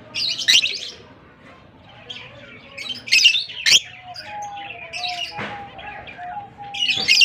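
A pair of young blue masked lovebirds chirping in short, shrill bursts every second or two, with a couple of sharp clicks among them.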